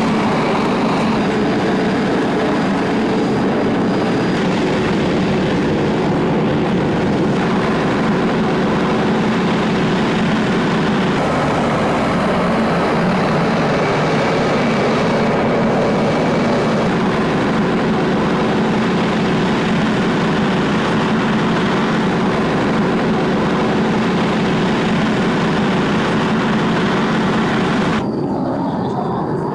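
MiG-29 fighter jet engines running with a steady roar and a faint turbine whine. The sound changes abruptly several times across successive shots and turns quieter near the end.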